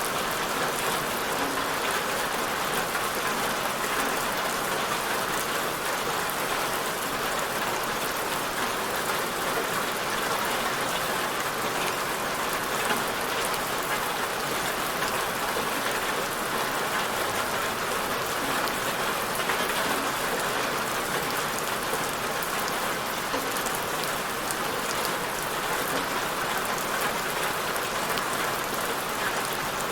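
Steady rain falling on a surface, an even hiss with scattered fine drop patter.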